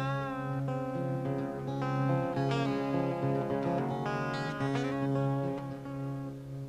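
Acoustic guitar playing an instrumental passage of a song live, with a wavering, bent note at the start.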